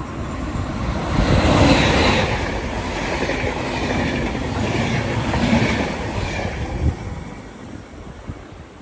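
A train passing on the line, its wheels running over the rails; the noise swells about a second in, holds for several seconds and fades away near the end.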